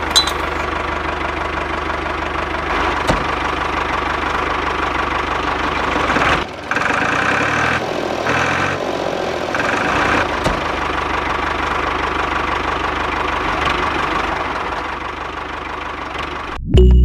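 Tractor engine running steadily, with a short break and change in its sound about six and a half seconds in.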